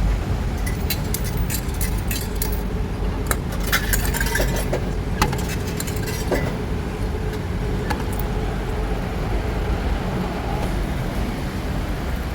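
Coins clinking in a run of light, sharp metallic clicks over the first few seconds, with a few more near the eight-second mark, over a steady low hum.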